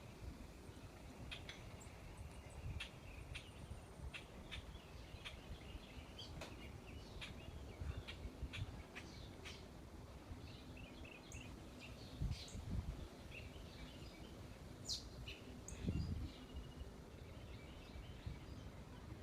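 Small wild birds around a backyard feeder chirping, many short scattered calls from several birds at once, over a faint low rumble that swells briefly twice.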